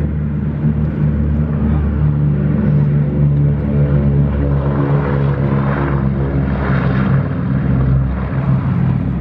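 Boeing B-17 Flying Fortress's radial piston engines running loud and steady, with the deep, even drone and propeller wash of a four-engined heavy bomber.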